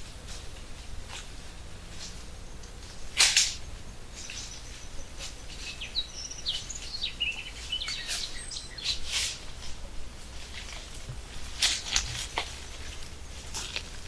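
Birds chirping briefly about six to eight seconds in, over a steady low rumble, with scattered short rustles and knocks; the loudest is a sharp noise about three seconds in.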